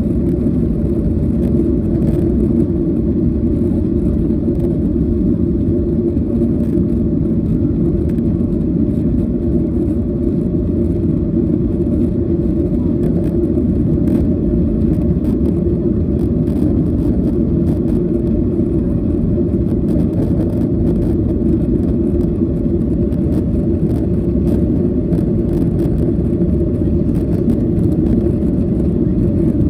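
Steady cabin noise of a Boeing 737-800 with its CFM56 turbofan engines running, a constant low rumble of engine and airflow noise with a faint steady hum above it.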